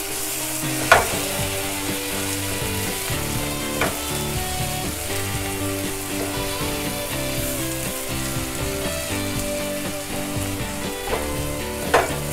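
Onion and scrambled egg sizzling in a nonstick frying pan as a wooden spatula stirs and breaks them up, with a few sharp knocks of the spatula against the pan.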